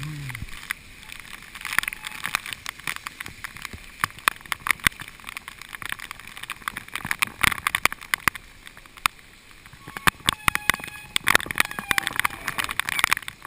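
Raindrops striking the GoPro Hero2 camera's housing in a dense, irregular patter of sharp taps, over a steady rush of wind on the microphone.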